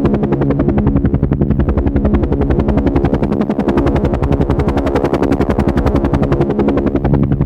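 Helicopter in flight: a fast, even rotor-blade chop over a steady engine hum.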